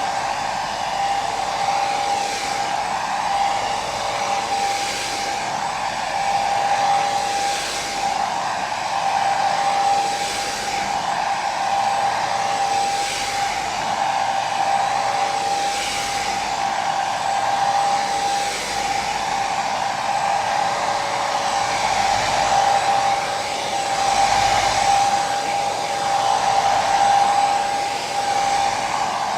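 Hair dryer running continuously: a steady airy hiss over a constant motor whine, swelling and easing gently every couple of seconds.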